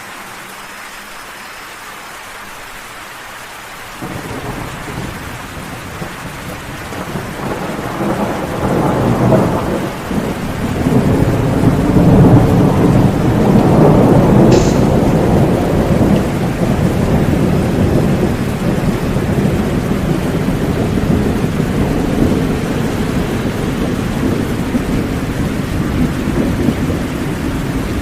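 Steady rain with a long rumble of thunder that comes in about four seconds in, builds to its loudest around the middle and slowly dies away, the rain going on under it.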